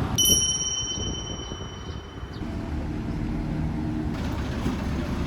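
A high, steady ringing tone lasting about two seconds, followed by a low, steady rumble like a vehicle running nearby.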